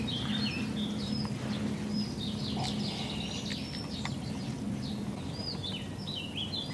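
Several wild birds chirping and singing together, many short, quick rising and falling notes overlapping, over a faint steady low hum.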